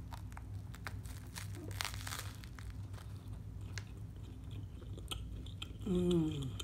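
Crunchy bite into a shrimp po' boy, crusty French bread and cracker-crumb-breaded air-fried shrimp, followed by chewing with scattered crunches; the densest crunch comes about two seconds in. Near the end a short falling hum of the voice, the loudest sound.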